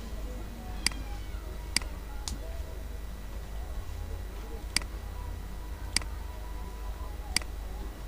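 Computer mouse button clicks, six sharp single clicks at uneven intervals, over a low steady hum.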